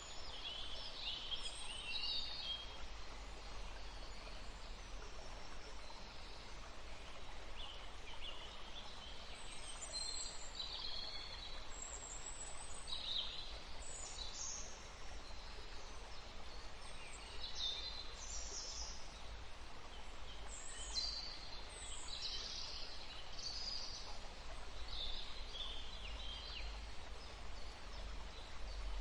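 Several birds chirping and calling in short, high, scattered phrases, over a steady low background rumble.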